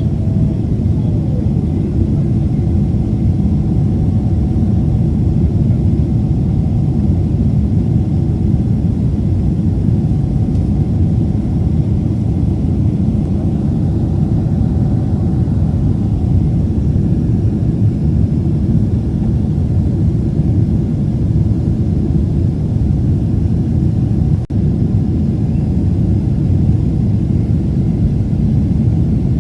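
Passenger jet airliner's engines: a steady, loud low rumble with a faint steady hum above it.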